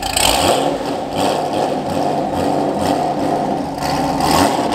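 Supercharged Camaro's engine, fitted with a Corsa exhaust, running at low speed and revving in several short throttle blips as the car creeps up a trailer ramp. The strongest blips come just after the start and near the end.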